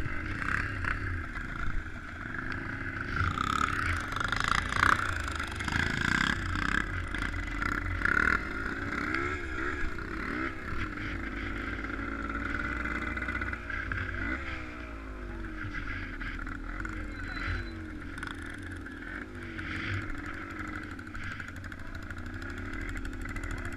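A vehicle engine running continuously, its pitch rising and falling again and again as the throttle changes, with a few louder knocks in the first several seconds.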